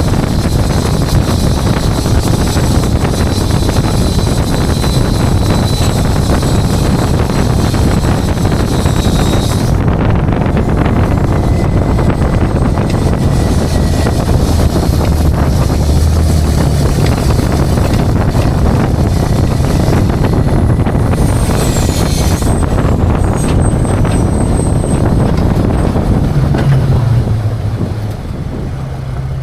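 Tow truck driving: steady road and wind noise buffeting the microphone over the low sound of the engine, easing off near the end as the truck slows.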